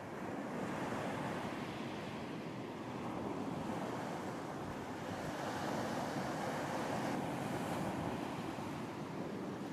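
Ocean surf washing onto a beach: a steady rush of breaking waves that swells and eases gently, with some wind.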